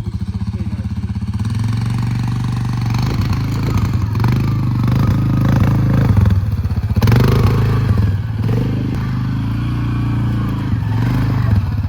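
A small petrol engine running, its pitch rising and falling as it is revved, most in the middle of the stretch.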